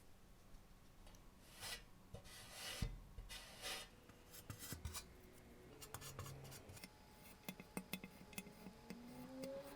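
Quiet hand-tool work on small parts: three short scraping or rubbing strokes, then a run of light clicks and taps, with a faint rising squeak near the end.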